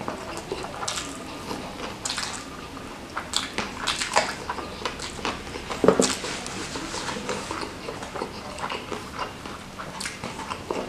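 Close-miked chewing of spicy smashed fried chicken and rice: irregular wet mouth smacks and clicks, with one loud smack about six seconds in. Fingers pick at the sambal-coated chicken near the end.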